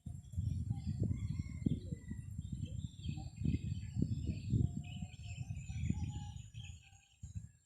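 Gusty wind buffeting the microphone in uneven low rumbles, with faint bird chirps in the background. It dies away near the end.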